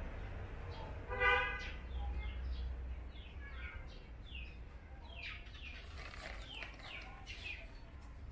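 Small birds chirping in many short, quick downward-sliding notes over a steady low rumble. About a second in, one short, loud pitched call stands out above them.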